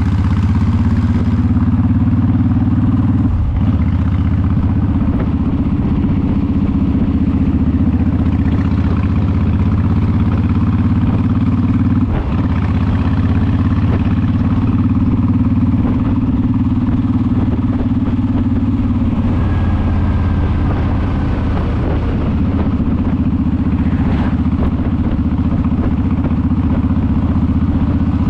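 Honda VTX cruiser's V-twin engine running steadily under way. The engine note has two brief dips, about three and about twelve seconds in.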